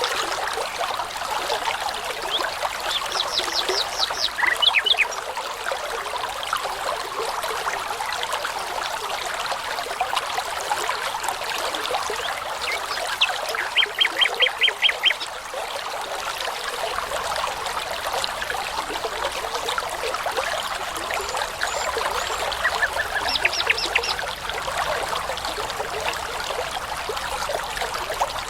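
A small brook running steadily, with a nightingale singing three short phrases over it. Each phrase is a fast series of repeated high notes, and the loudest one comes near the middle.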